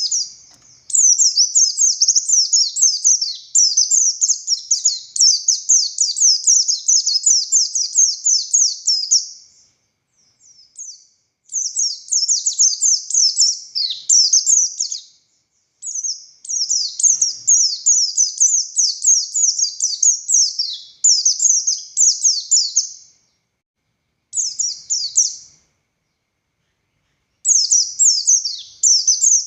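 Pleci buxtoni white-eye singing in long runs of rapid, high twittering. The song comes in about six phrases of one to eight seconds each, with short silent gaps between them.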